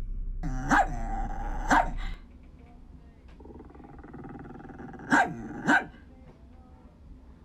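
A dog barking: two barks about a second apart, then two more in quick succession about three seconds later, over a low rumble that stops about two seconds in.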